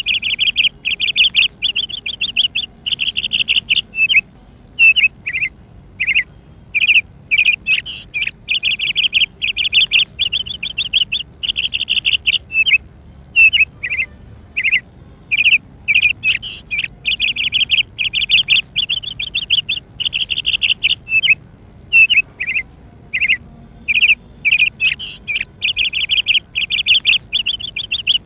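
Bird chirping: a long run of high, rapid trilled chirps and short single notes, repeating over and over with brief gaps.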